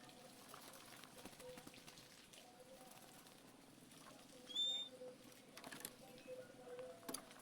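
Oriental magpie-robin (kacer) giving a single short, high whistled note about halfway through, over a faint steady hum, with a couple of faint clicks near the end.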